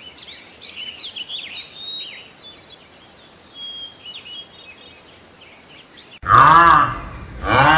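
Faint bird chirps and twitters in the first few seconds over a quiet background. About six seconds in, a sudden much louder pitched call that rises and falls sounds twice.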